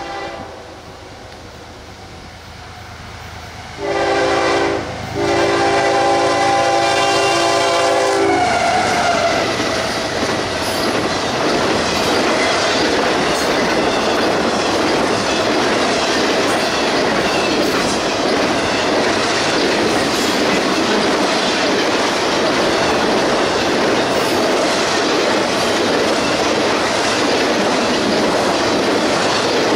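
CSX freight train sounding its locomotive horn about four seconds in, a short blast then a longer one of about three seconds. The train then passes close by with loud, steady wheel-on-rail noise.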